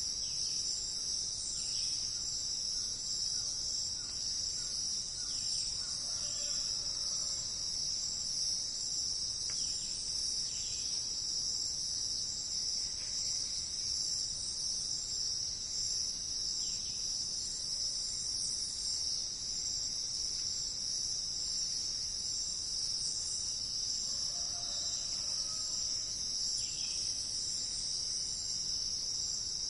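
Steady high-pitched insect chorus, with faint bird calls now and then.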